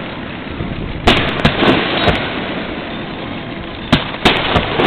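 Aerial fireworks exploding: a series of sharp bangs in two clusters, about a second in and again near the end, over a continuous rumbling haze.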